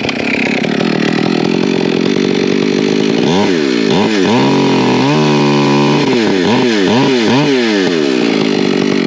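Engine-driven cutting machine working wood, running loud, its engine pitch dipping and recovering over and over from about three seconds in.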